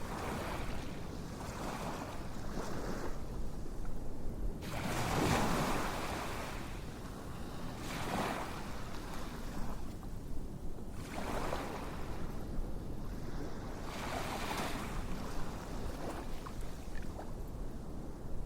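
Ocean waves washing in and drawing back, a soft surge every few seconds, the biggest about five seconds in. A few faint clicks near the end.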